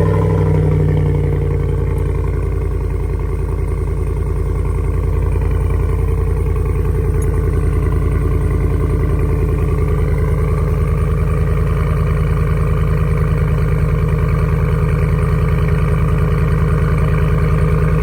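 GMC Sierra 1500 AT4's V8 idling just after a cold start, heard through a single Black Widow Venom 250 muffler and 3-inch stainless side-exit exhaust. The idle is steady and even, easing slightly in the first couple of seconds, then holding.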